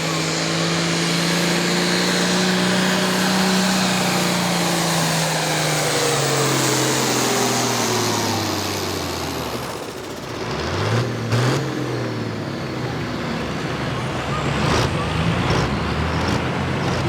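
Turbocharged International diesel pulling tractor at full load down the track, its engine note holding and then lugging down in pitch over about ten seconds as the sled takes everything out of the motor. The engine drops off, revs up briefly with a few sharp clicks, then settles to a lower, steady run.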